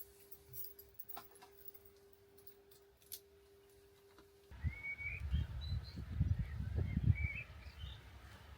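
A faint steady hum with a few clicks. About halfway in it changes abruptly to small birds chirping over loud, irregular low thumps and rumbling.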